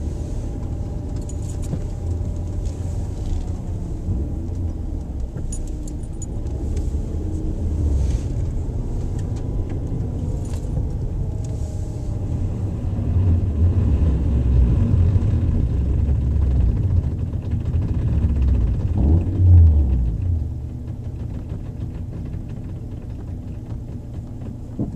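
Nissan Sentra's engine running at low speed, heard from inside the cabin as a steady low rumble that swells briefly near the end. A few faint ticks and rattles come through in the first half.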